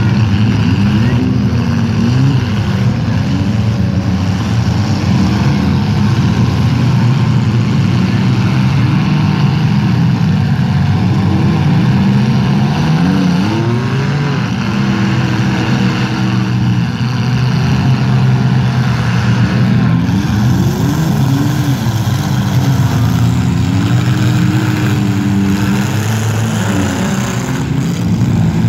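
Several modified compact demolition-derby cars' engines running and revving together, loud and continuous. Their pitch rises and falls as the cars accelerate, back up and ram each other.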